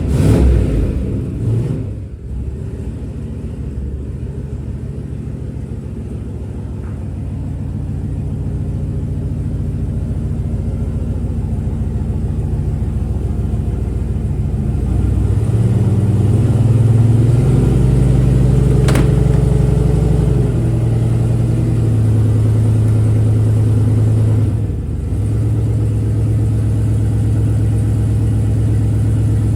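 Car engine running steadily, loud in the first couple of seconds, then picking up revs somewhat past the middle before settling back, with a brief dip in level near the end.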